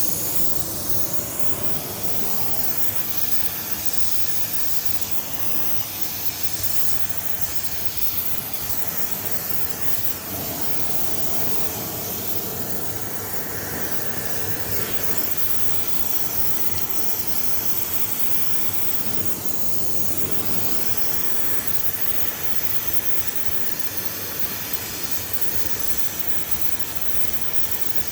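Welding on a cast AFR cylinder head: a steady hiss that runs on without a break.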